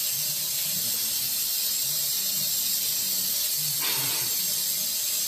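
Warm tap water running with a steady hiss.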